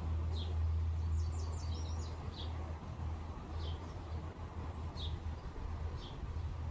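Small birds chirping outdoors: single short falling chirps about once every second or so, with a quick run of several higher notes about a second in. A low steady rumble lies underneath.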